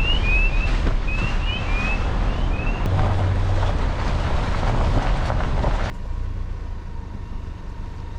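Truck driving: steady road and wind noise with a deep rumble, with a run of short, high, falling chirps in the first couple of seconds. About six seconds in it cuts abruptly to a much quieter low hum.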